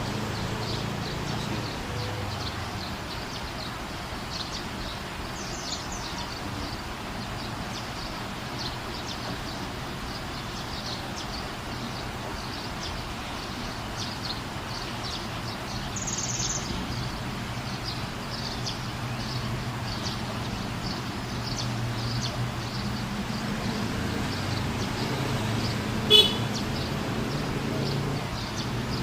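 Sunbird giving short, high chirps again and again over a steady low traffic rumble. One sharp loud click comes near the end.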